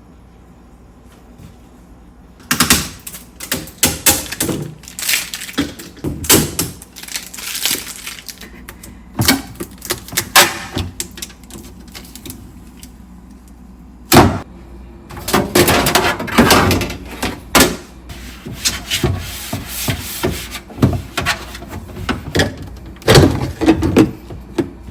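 Irregular clattering, knocking and rustling of household items and containers being handled and set down, with one sharp knock about halfway through.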